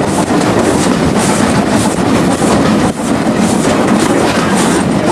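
A steam-hauled heritage passenger train running: loud, steady running noise from the coach, with wheels clattering over the rails.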